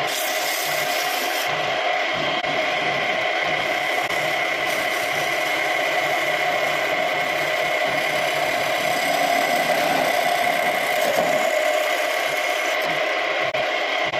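Homemade wood lathe running steadily with a constant motor whine, a turning tool scraping and rattling against the spinning scrap wood.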